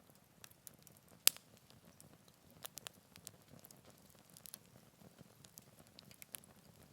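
Wood campfire in a Picogrill 398 fire pit crackling: irregular sharp pops and snaps, the loudest about a second in, over a faint low hiss.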